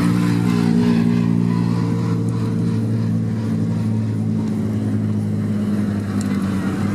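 Several touring race car engines running together at fairly steady revs, their pitch drifting slowly.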